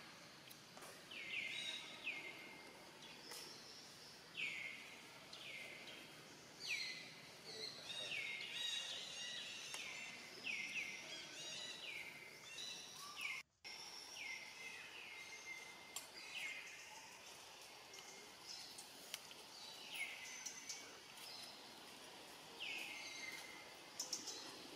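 A bird calling over and over against outdoor background noise, each call a short note that sweeps down and levels off, about one a second. There is a brief dropout about halfway through.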